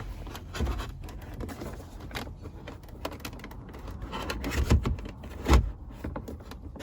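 Plastic instrument cluster housing being pushed and worked into its dash opening: scattered plastic clicks and knocks, the loudest near the middle and about five and a half seconds in, as the felt-padded cluster binds on the bottom and will not seat.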